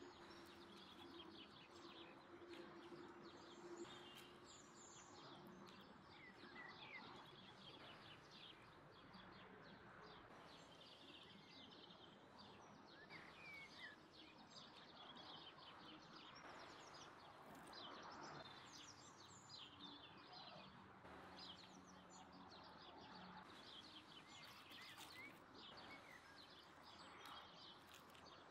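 Faint birdsong: many short chirps and tweets over quiet outdoor background noise.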